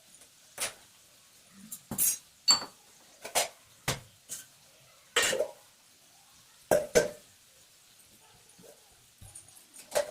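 Kitchen utensils and metal dishes being handled, about ten separate clinks and clattering knocks at irregular intervals, one with a short metallic ring.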